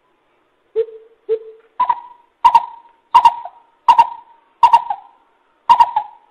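Coucal hooting: two low hoots about a second in, then a steady series of louder, higher-pitched hoots roughly every 0.7 seconds.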